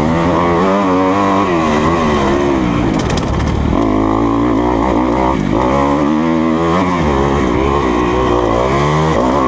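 2020 Kawasaki KX250F's single-cylinder four-stroke engine under riding, its pitch repeatedly rising and falling as the throttle is opened and shut, with a few brief clicks about three seconds in.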